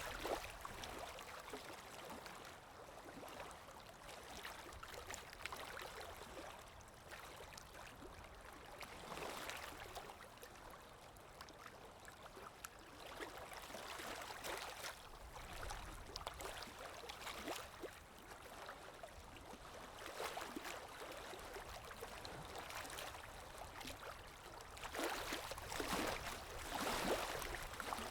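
Gentle river water lapping and gurgling, swelling and fading softly, and louder for a few seconds near the end.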